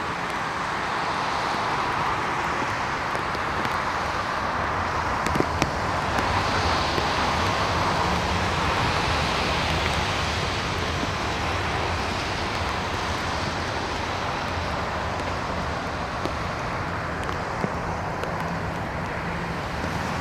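Boeing 737 MAX 8's CFM LEAP-1B turbofan engines running at takeoff power as the jet departs: a steady jet noise that swells a little midway and then eases.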